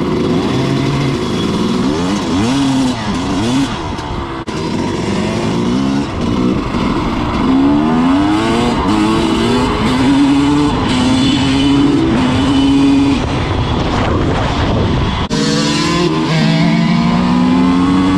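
Dirt bike engine running under load on a trail, its pitch rising as it accelerates, holding, then dropping back, over and over as the throttle opens and closes.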